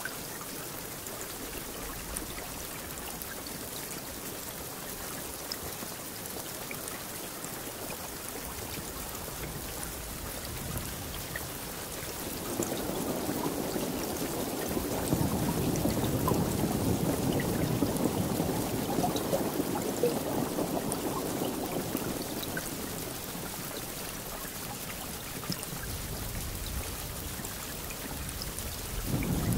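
Steady rain falling, with scattered drop ticks. About twelve seconds in, a long low rumble of thunder swells up and rolls on for about ten seconds before fading, and another rumble begins at the very end.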